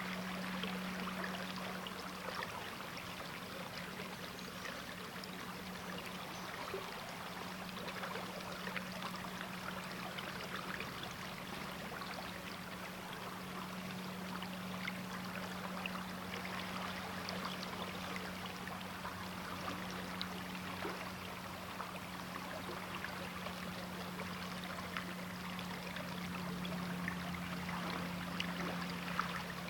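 River water flowing steadily over its bed, a continuous rush with small trickles and splashes, over a steady low hum.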